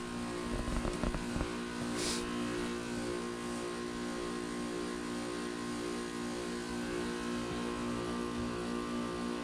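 Goodman GSZ14 heat pump's Copeland scroll compressor running with a steady hum during a defrost cycle. A few low thumps come near the start, and a short hiss about two seconds in.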